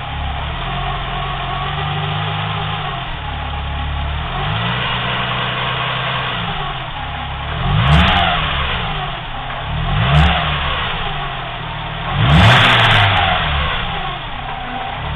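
BMW M20B25 2.5-litre straight-six engine idling, blipped three times in the second half so the revs rise and fall back each time. It carries a strange noise from the timing belt area that appeared after a timing belt change, which the owner cannot identify.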